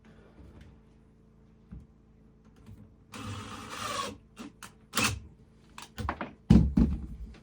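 A small power tool's motor runs for about a second, then a series of knocks and heavier thumps, the loudest near the end, as wood framing is worked.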